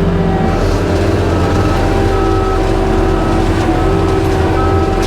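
Skid steer engine running steadily at working revs, driving a forestry mulcher head, with a thin higher whine that cuts in and out every second or so.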